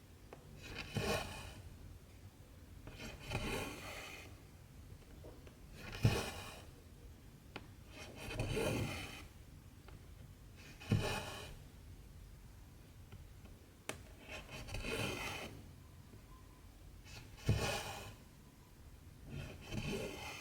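Cotton embroidery thread being drawn through cross-stitch fabric, a short rasping rub about every two to three seconds, some of them starting with a sharp tap as the needle goes through.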